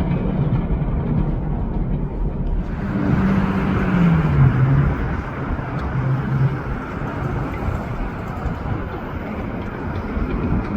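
Elevated subway train on the 7 line, R188 cars, running through the station: a steady rumble with a low motor hum that slides down in pitch about four seconds in, and a rushing hiss of wheels on rail from about three seconds in.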